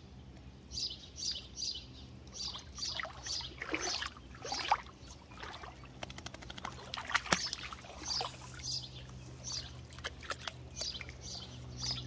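Songbirds singing: short high notes repeated in quick runs of three or four, with a steady low hum underneath.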